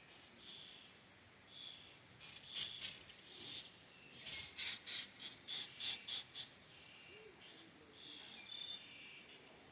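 Two small birds chirping: scattered short high chirps, with a quick run of about eight sharp chirps, roughly four a second, in the middle.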